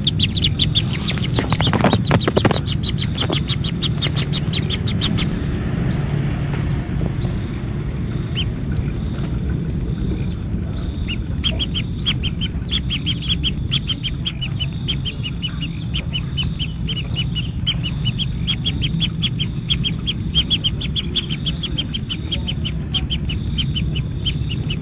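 Birds giving fast runs of short, high chirps, several a second, which thin out for a few seconds in the middle and then resume. A steady high insect drone runs underneath.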